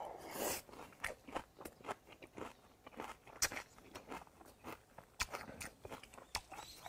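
Close-up sound of a person chewing a mouthful of spicy raw goby salad: a string of irregular crunches and mouth clicks, several a second.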